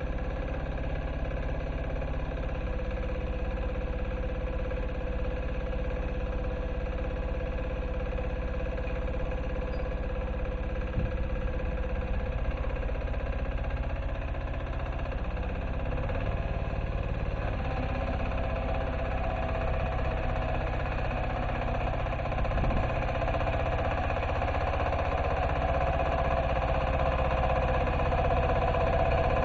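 MB2 diesel walk-behind tractor's engine running steadily as it plows, growing somewhat louder toward the end as the machine comes closer.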